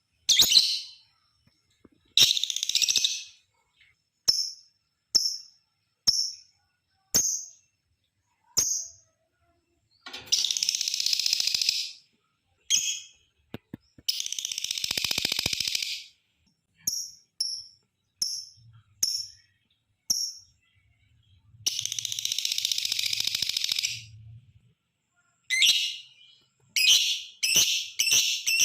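Lovebird calling: short shrill chirps about once a second, broken three times by a long burst of rapid, shrill chatter of about two seconds, the 'ngekek' trill; near the end the chirps come quicker and closer together.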